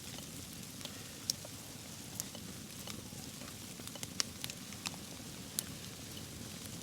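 Wood campfire crackling: irregular sharp pops, about a dozen, over a steady low rush.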